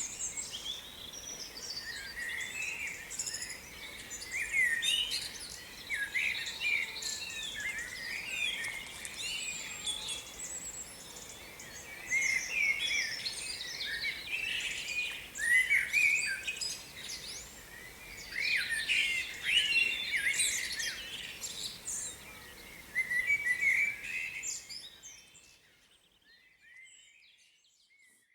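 Birds chirping and singing: many quick, overlapping high chirps and warbles, fading out near the end.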